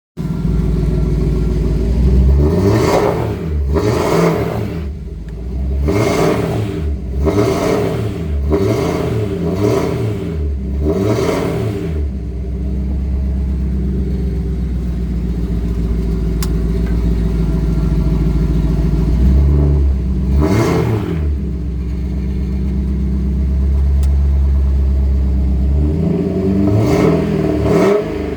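Ford pickup truck's engine revved hard in a string of quick rises and falls, about one a second. It is then held at high revs for several seconds, with another rev up partway through and more quick revs near the end.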